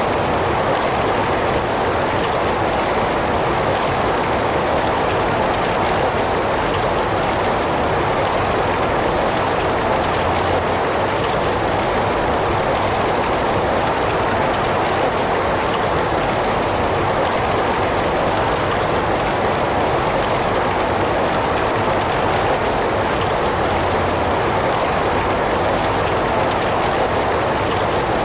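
Heavy rain falling steadily: an even, unbroken hiss with no separate drops, thunder or other events standing out.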